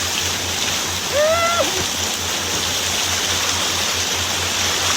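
Steady rush of water and wind around a six-person outrigger canoe surfing at speed, with a low buffeting under it. About a second in, a short high whoop from a paddler rises and falls.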